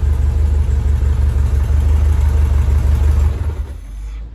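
Bradley GT kit car's rear-mounted engine idling with a steady low rumble, then shut off by hand at the engine about three and a half seconds in and running down to a stop, because the ignition key would not switch it off.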